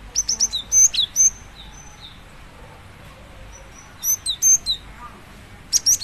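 Female cinereous tit calling to a male with rapid runs of short, sharp, high chirps. A burst comes at the start, another about four seconds in, and a brief pair near the end, with a low steady hum in between.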